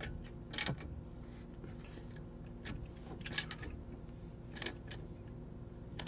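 A few scattered metal clicks and clinks of a wrench working the alternator's bracket bolt as the bolt is tightened with the drive belt held in tension, over a low steady hum.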